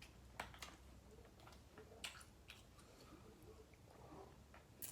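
Faint chewing at a mukbang microphone: a few scattered soft smacks and clicks over quiet room tone.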